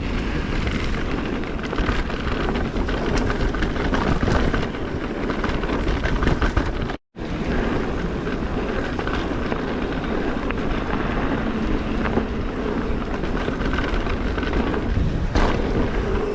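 Norco Range VLT electric mountain bike descending a dirt trail at speed: steady wind rush on the microphone over tyres rolling on moist dirt and the rattle of the bike over bumps. The sound cuts out to silence briefly about seven seconds in.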